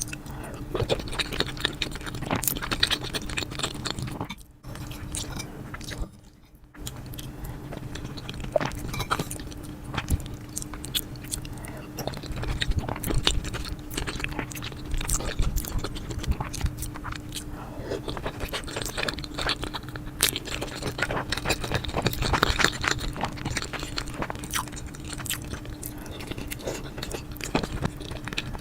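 Close-miked chewing, biting and mouth smacking of food, with a steady low hum underneath. There are two brief drops to near silence about four and six seconds in.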